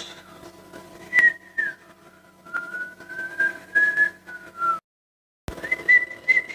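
A person whistling a slow tune: one clear, long-held pitch gliding gently up and down. It cuts out to silence for a moment about five seconds in, then carries on.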